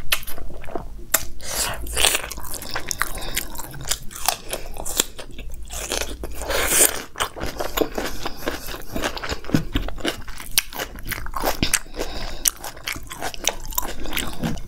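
Close-miked eating sounds: chewing and crunching of mouthfuls of biryani and raw salad vegetables, with irregular crisp bites and wet mouth clicks.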